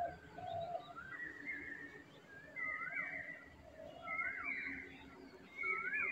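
Birds calling in the background: one call, rising then falling in pitch, repeats about every second and a half, with lower, shorter calls between.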